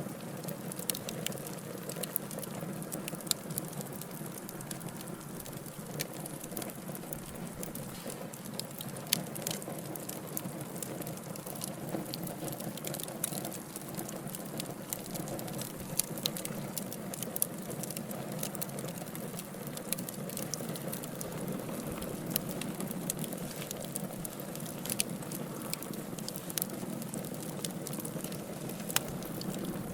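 Wood logs burning in a fireplace: a steady low rush of flames with frequent sharp crackles and pops scattered throughout.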